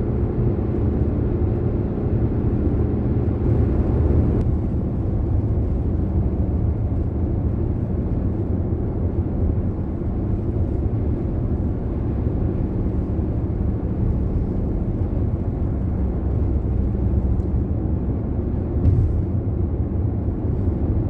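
Steady engine and road noise heard inside a moving car, a continuous low rumble whose higher hiss eases about four seconds in.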